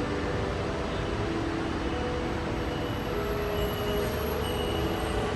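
Taichung MRT Green Line metro train pulling into the station, a steady rumble and rush of train noise on the platform. Faint scattered notes of the station's acoustic-guitar arrival melody sound over it.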